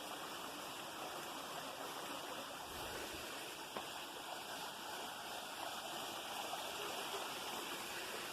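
Stream water rushing steadily over rocks, fresh water coming off the moors.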